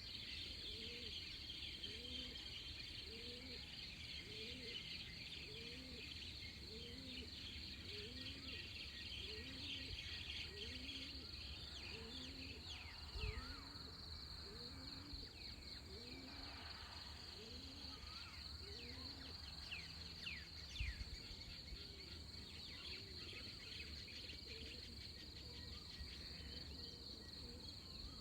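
Tropical dawn chorus: a steady high insect drone under many birds chirping in quick falling notes, with a low hooting note repeated about once a second throughout. Two soft low thumps, about 13 and 21 seconds in.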